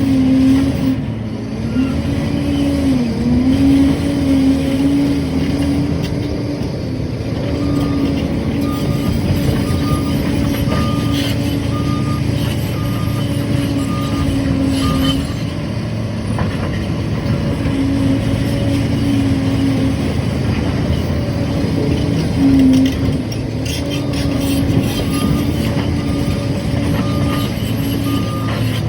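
Liebherr PR 746 crawler dozer's diesel engine running steadily under load, its pitch dipping briefly now and then. A reverse alarm beeps evenly, a little over once a second, for several seconds in the middle and again near the end, as the dozer backs up.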